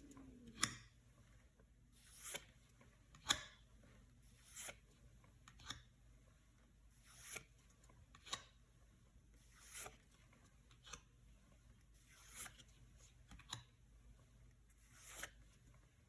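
Yu-Gi-Oh trading cards being slid off a stack one at a time, a soft, faint swish of card on card about once a second, a dozen times.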